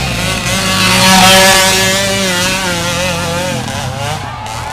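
Trail motorcycle engine revving hard under load on a steep dirt climb, its pitch wavering up and down with the throttle; loudest about a second in, then easing off.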